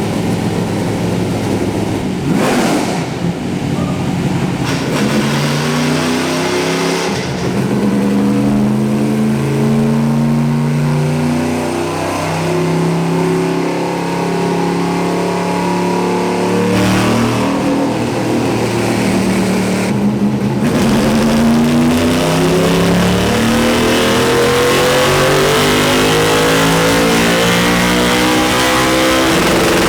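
Car engine running and being revved or driven through the gears, its pitch climbing and dropping several times.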